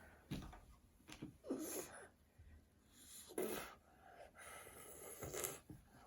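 A toddler making car noises with her mouth: four short breathy bursts, about one every second and a half.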